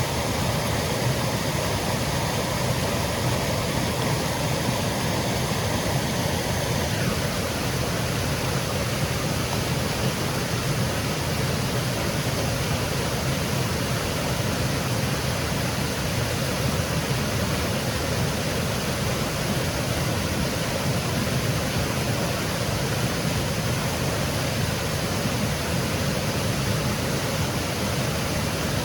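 Small woodland waterfall cascading, a steady rushing of water. A faint high hum fades out about seven seconds in.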